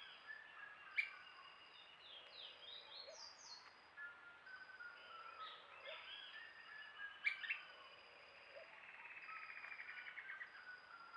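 Several birds chirping and whistling at once, with short calls overlapping, and a fast trill in the second half. Two sharp clicks stand out, about a second in and about seven seconds in.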